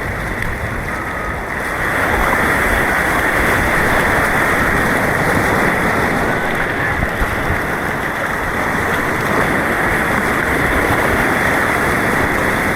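Fast white water of a man-made slalom course rushing around a kayak, a steady noisy rush that gets louder about two seconds in.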